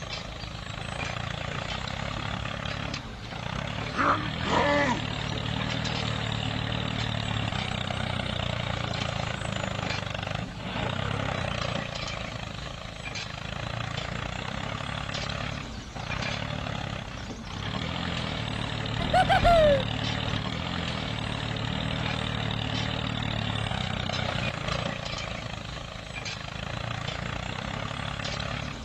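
Small engine running steadily at a constant speed, with two short cries that fall in pitch, about four seconds in and again near twenty seconds in.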